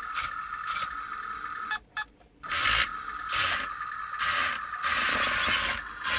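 Small electric motors and plastic gearboxes of a mini RC toy tank running, with a steady whine and a scraping pulse repeating a little under once a second. It cuts out for about half a second around two seconds in, then starts again. The power comes through tin foil pressed onto corroded battery contacts.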